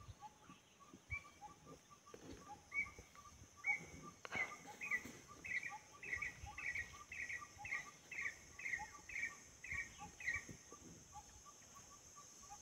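A bird calling a run of about a dozen short, clear notes, roughly two a second, growing louder before stopping. Under it run a steady high insect hiss and faint regular ticking, with a single soft knock about four seconds in.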